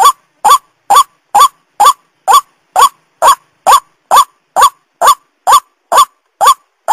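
White-breasted waterhen (ruak-ruak) lure call: a short, loud note repeated evenly about twice a second, each rising and then dropping in pitch. It is a played-back calling recording used to attract the bird.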